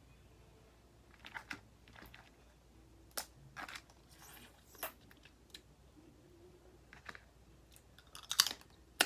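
Boiled crawfish being peeled and eaten close to the microphone: scattered short cracks and crunches of shell with bits of chewing, the loudest crackle about eight and a half seconds in.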